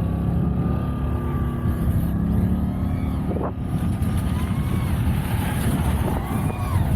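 Portable generator engine running steadily at low idle while charging an RC battery, a constant low hum.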